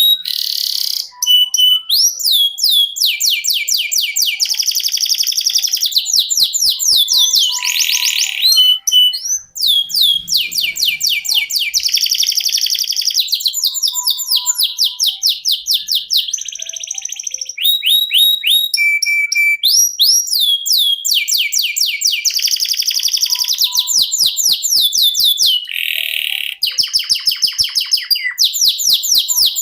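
Domestic canary singing an unbroken song of rolling trills: runs of rapid repeated notes and quick rising chirps, switching from one phrase to the next every second or two.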